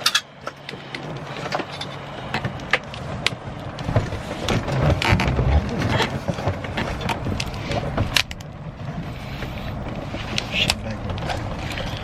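Clicks, knocks and rustling from handling gear inside a helicopter cabin, such as seatbelt buckles, doors and headsets, over a low rumble, with the engine not yet started.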